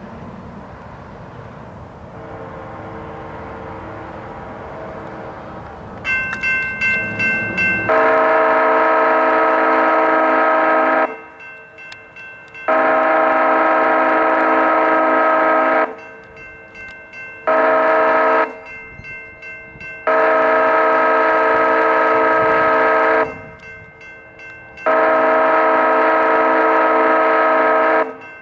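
A passenger train approaches with a low rumble, and a crossing bell starts a rapid, steady ringing. The locomotive's horn then sounds the grade-crossing signal as a loud multi-note chord: long, long, short, long, with another long blast beginning near the end. The bell rings on in the gaps between blasts.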